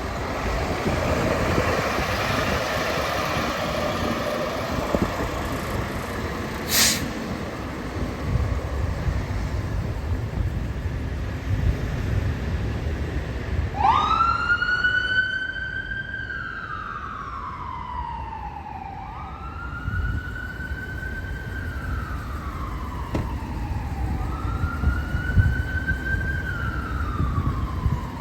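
Emergency vehicle siren wailing: from about halfway in, each cycle rises quickly and then falls slowly, repeating about every five seconds, over engine and road noise from passing vehicles.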